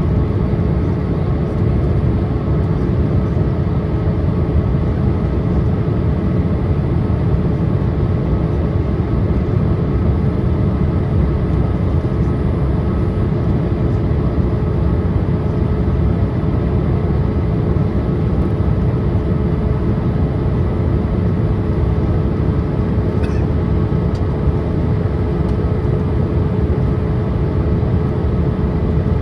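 Steady cabin noise inside a Boeing 787-8 airliner on descent: a constant low rumble of airflow and engines with a steady hum over it.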